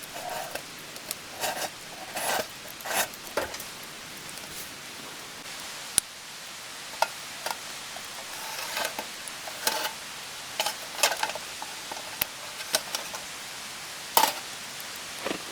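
Irregular light knocks and clatters, some single and some in quick little clusters, over a steady hiss.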